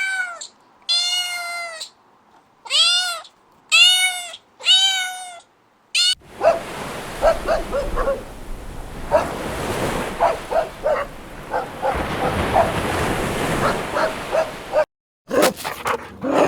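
Domestic cat meowing five times in a row, each meow a separate drawn-out call. About six seconds in, a noisier recording takes over: many short high calls over a steady hiss, broken by a brief silence near the end.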